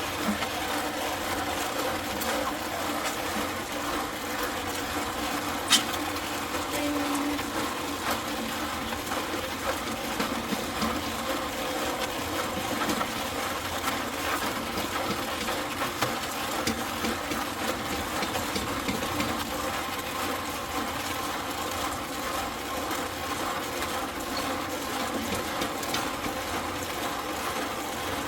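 Concrete mixer running steadily while it mixes a batch of concrete, with one sharp click about six seconds in.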